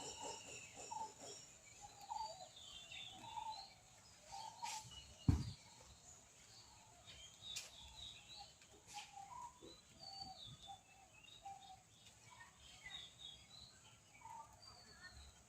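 Short high chirps scattered throughout, over a steady high hiss, with one sharp thump about five seconds in.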